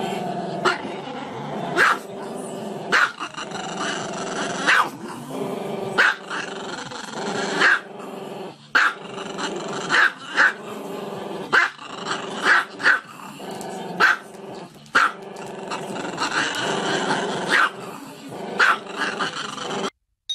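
Small black-and-tan dog vocalising without pause, a low continuous grumble broken by sharp barks about once a second. The sound cuts off abruptly near the end.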